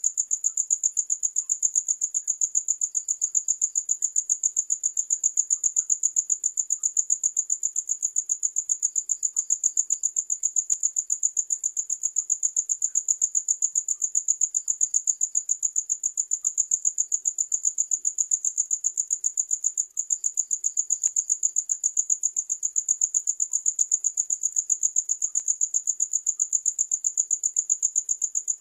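Crickets chirping in a steady, fast, high-pitched pulse, about five chirps a second without a break. A fainter, slightly lower chirp comes in briefly every six seconds or so.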